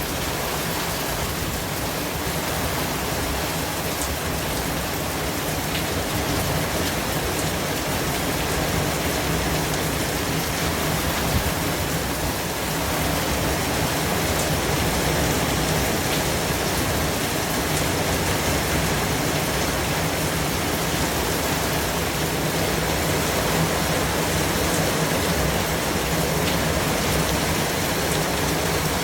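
White-noise track: a steady, even hiss spread across low and high pitches, with a few faint ticks.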